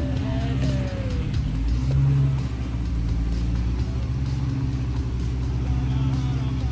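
Jeep engine running steadily under way, with a brief rise in revs about two seconds in.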